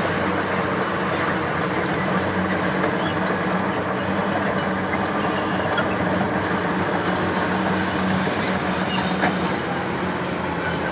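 Hitachi EX2500 mining excavator's diesel engine running steadily, with a low even hum and a constant mechanical rumble.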